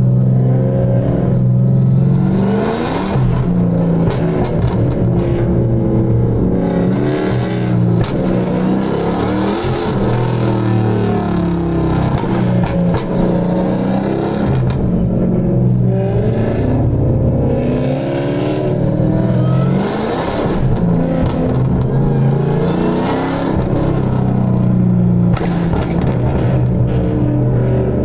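Dodge Hellcat's supercharged 6.2-litre Hemi V8 revving and accelerating hard again and again, its pitch rising and falling with each pull.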